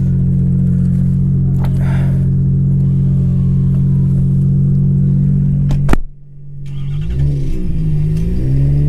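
Nissan Skyline GT-R R34's RB26DETT twin-turbo straight-six idling steadily. About six seconds in there is a sharp click and a brief dip, then the engine note rises and falls repeatedly as it is revved.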